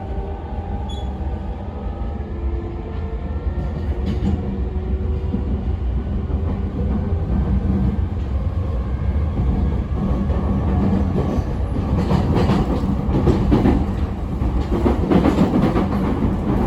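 E217 series electric train running at speed, heard from inside the car. Faint rising motor tones from its Mitsubishi IGBT inverter fade in the first few seconds. The steady rumble then grows, and in the last few seconds the wheels clatter over rail joints.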